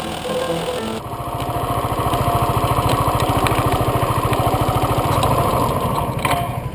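About a second of music cuts off abruptly, then a motorcycle engine runs steadily with a fast, even pulsing beat. A few sharp clicks come near the end.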